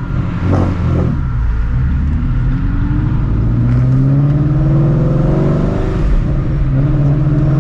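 Supercharged Ford Shelby GT350's 5.2-litre flat-plane-crank V8 pulling under acceleration. Its pitch rises steadily for several seconds, dips briefly near the end as at a gear change, then rises again.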